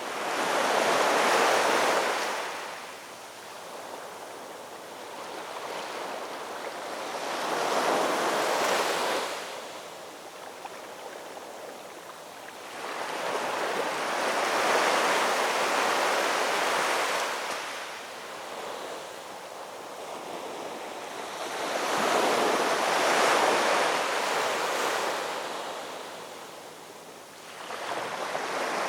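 Ocean surf: waves breaking in slow surges, about four loud swells several seconds apart, with a softer hiss of wash between them.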